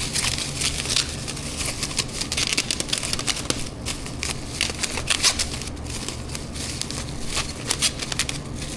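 Packaging being handled, crinkling with many small irregular clicks and crackles, over a steady low hum.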